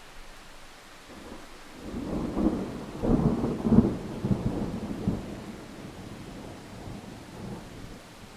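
A roll of thunder over steady rain: the rumble builds about two seconds in, is loudest in the middle, and dies away, leaving the rain.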